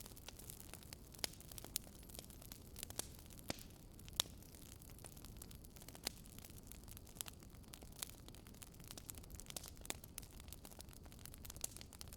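Campfire burning: a soft steady hiss with irregular crackles and pops of burning wood, a few louder snaps among many small ones.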